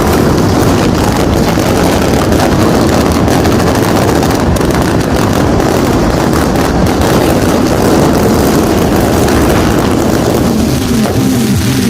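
Dense, unbroken din of many firecrackers and fireworks going off at once, a steady crackling rumble with no single bang standing out.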